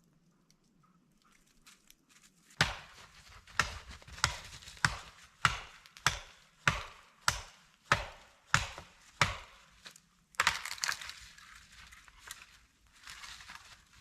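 Wood being chopped with a series of about eleven even, sharp strikes, a little under two a second. About three seconds before the end, the strikes give way to a rougher scraping stretch.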